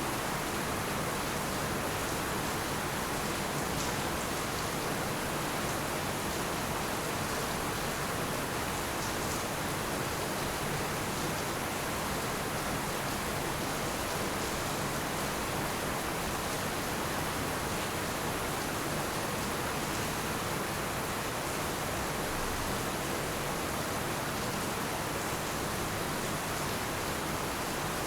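Heavy rain falling steadily, a dense, even hiss with no breaks and no thunder.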